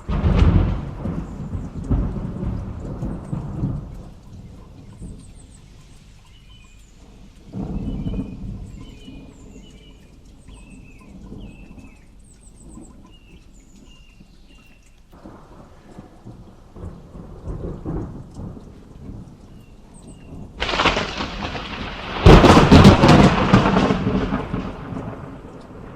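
Thunder rolling in a thunderstorm over steady rain: several low rumbles come and go, then a much louder, sharper thunderclap cracks a little past the middle and rumbles on to the end.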